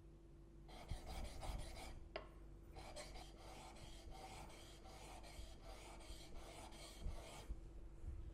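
Steel blade bevel rubbed back and forth on a wet diamond sharpening plate, a steady scraping rasp. A short run of strokes about a second in, a pause, then a longer run at about two strokes a second that stops shortly before the end.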